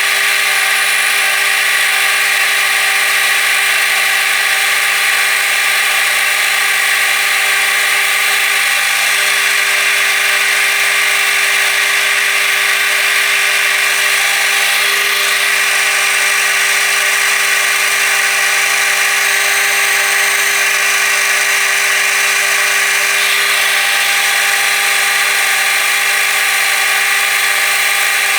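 Small metal lathe running steadily: a constant machine whine with several fixed tones while a brass part turns in it.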